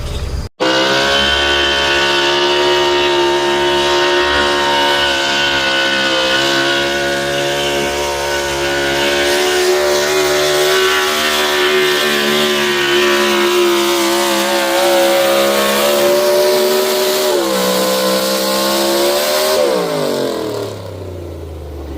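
Pulling truck's engine running flat out at high, steady revs under heavy load as it drags the weight sled. Its pitch steps down about three-quarters of the way through, then falls away near the end as the revs come off. A brief dropout cuts the sound just after the start.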